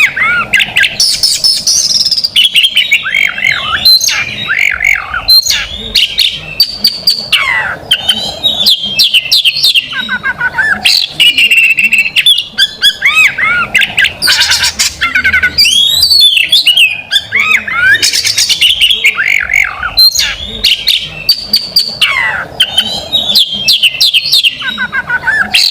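Oriental magpie-robin (kacer) singing loudly and without a break, fast varied phrases of rapid trills, whistles and sweeping notes. It includes the quick, rapid-fire bursts that kacer keepers call 'tembakan'.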